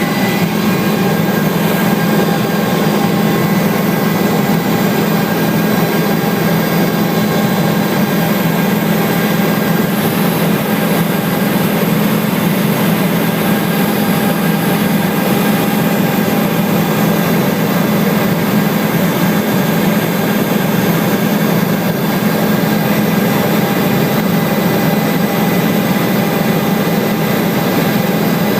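Helicopter in steady flight heard from inside the cabin: a loud, unchanging drone with a strong low hum and several thin high whines over a rushing noise.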